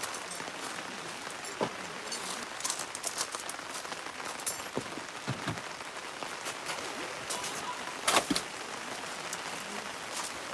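Heavy rain falling steadily, with scattered heavier drops striking close by; one sharp drop stands out about eight seconds in.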